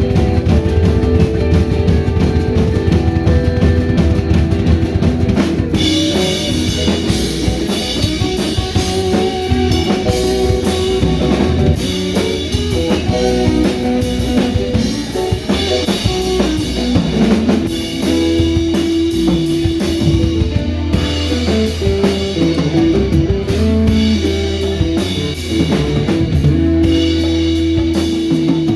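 Live rock band jamming instrumentally: electric guitar lines over a drum kit and bass, with cymbals coming in strongly about six seconds in.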